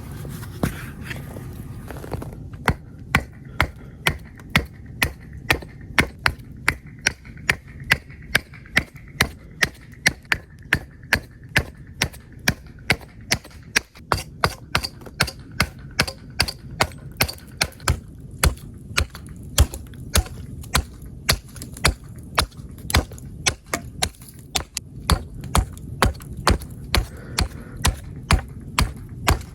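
Small hatchet chopping into a green wood spoon blank, striking steadily at about two blows a second.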